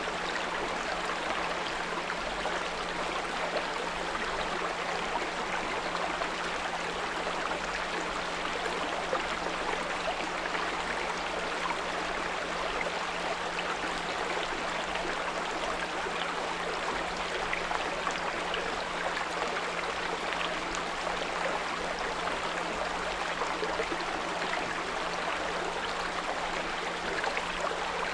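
Small brook flowing steadily, with a 174 Hz pure tone held unbroken low beneath the water.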